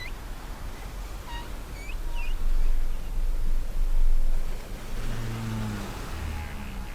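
Sea waves with a steady low rumble and a surge about two seconds in. A few short bird chirps come in the first two seconds, and a low, drawn-out whale call follows about five seconds in.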